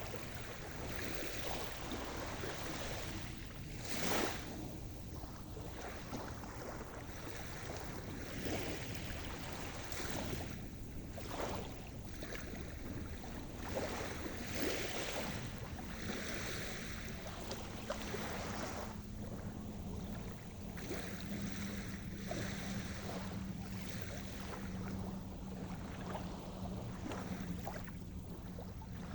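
Sea surf: waves breaking and washing in, a continuous rush that swells and ebbs unevenly, with a few sharper crashes.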